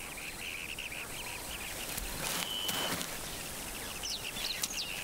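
Small wild birds calling in the bush: a quick run of repeated chirps at first, a short steady whistle about halfway, and thin chirps near the end.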